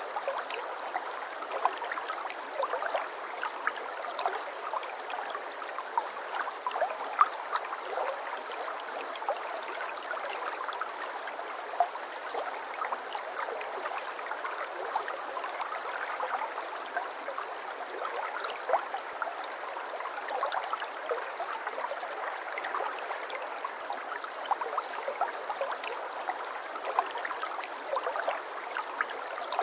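A shallow brook babbling steadily over stones, with a dense patter of small gurgles and splashes.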